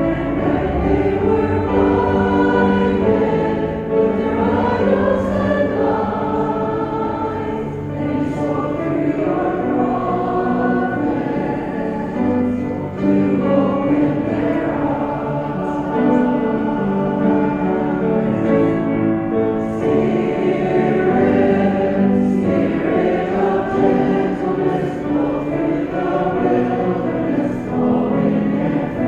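A choir singing a hymn together, voices held on long notes that change every second or so.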